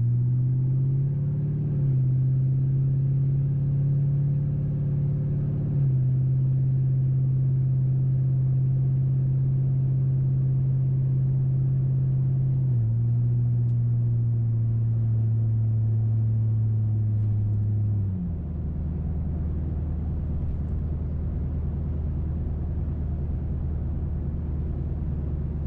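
The exhaust note of a 2005 Mercury Grand Marquis 4.6-litre V8, running through only catalytic converters and an H-pipe with the mufflers deleted, heard inside the closed cabin as the car pulls away under light throttle. The note climbs, then drops in pitch twice as the automatic shifts up, about 13 s and 18 s in, and settles lower and a little quieter to cruise.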